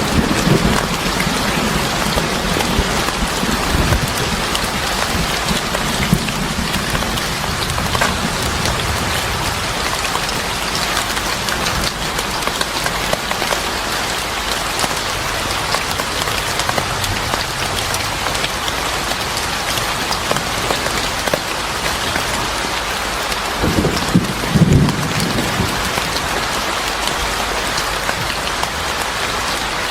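Steady rain falling on a surface, with a few sharp crackles from a wood fire and a brief low rumble about three quarters of the way through.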